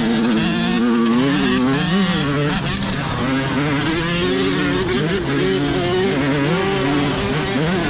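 Two-stroke dirt bike engine being ridden, its pitch rising and falling over and over with throttle and gear changes.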